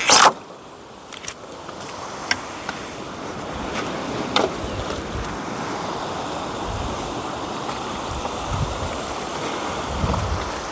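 A steady outdoor rush like wind and surf, opening with a sharp knock and broken by a few light clicks.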